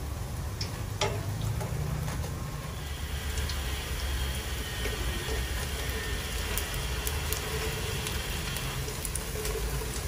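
Batter-coated shrimp fritters sizzling in hot oil in a frying pan, the hiss growing a little after about three seconds, with a few light clicks of chopsticks against the pan over a steady low rumble.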